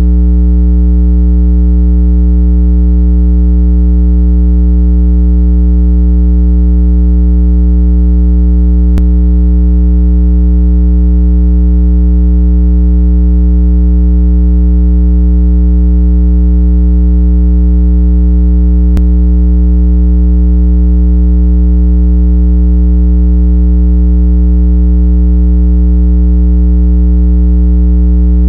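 Speaker-cleaning 'water eject' tone, billed as 165 Hz: a loud, steady, unchanging low synthesized hum with overtones, played to vibrate earbud and phone speakers so they shed trapped water. A faint click comes about every ten seconds, twice in this stretch.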